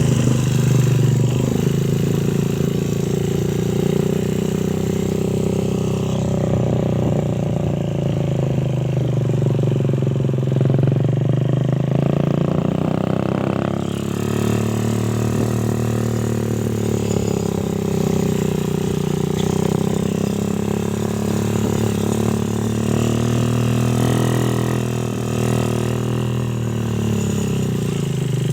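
Suzuki Satria FU motorcycle engine running through an aftermarket Daytona exhaust, holding a steady idle whose pitch drifts slowly up and down with light throttle.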